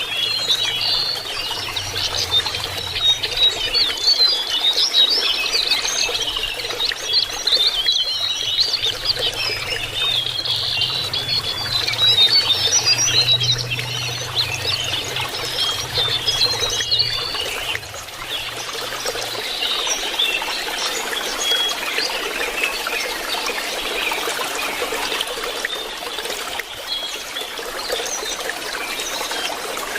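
Lesser shortwing calling in rapid high, thin chirps and warbles over a steady trickle of running water. A faint low hum underneath stops about two-thirds of the way through.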